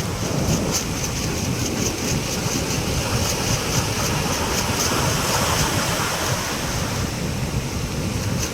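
Heavy storm surf, waves about three metres high, breaking and surging in a continuous wash, with wind buffeting the microphone.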